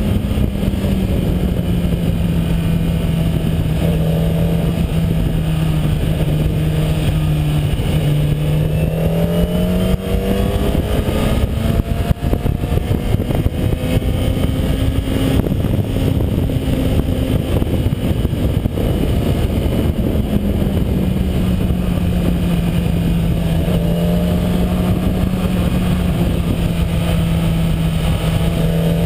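2011 Kawasaki ZX-10R's inline-four engine with stock exhaust, heard from the bike while riding, with wind rushing over the microphone. The engine note sinks slowly as the rider cruises, then climbs as the throttle is rolled on, about a third of the way in and again about two-thirds of the way in.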